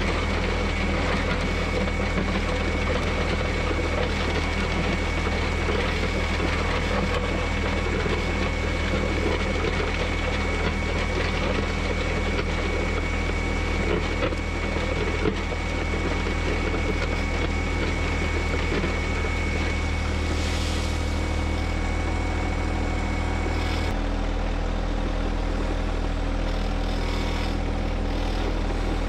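John Deere 1025R subcompact tractor's three-cylinder diesel running steadily under work, with a thin high whine over it. Near the end the whine cuts off and the engine note changes.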